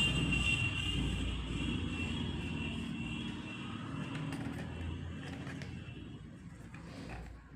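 Steady vehicle-like engine noise, a rumble with a hissing upper band, slowly fading away over the last few seconds.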